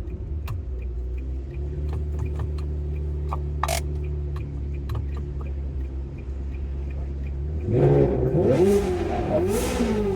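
Ferrari 360 Modena's V8 idling steadily through its newly modified muffler, with a few light clicks, then revved in several quick throttle blips near the end.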